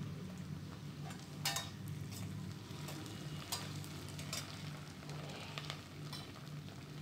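Onion and ginger-garlic paste quietly sizzling in hot oil and ghee in a pressure cooker, with a few sharp clicks of a slotted steel spoon against the pan as it is stirred.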